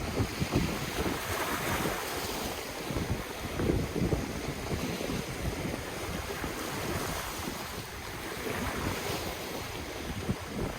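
Ocean waves washing on the shore, swelling and falling a few times, with wind buffeting the microphone as a low, uneven rumble.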